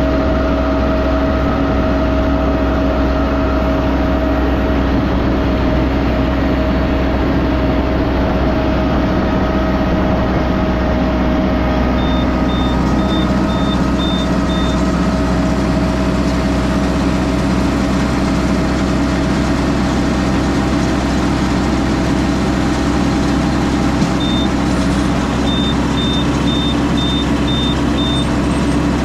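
Farm tractor engine running steadily at constant speed, with a deep rumble and a steady whine. Twice a short string of high, evenly spaced beeps sounds, about two a second, once in the middle and again near the end.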